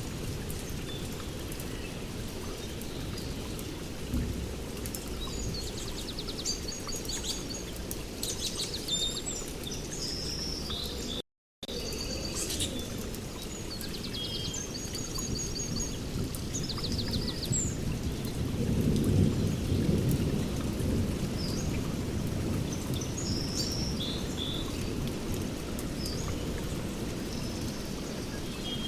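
Steady rainforest rain with rolling thunder that swells about two-thirds of the way through, and birds chirping and trilling over it. The sound cuts out for a split second near the middle.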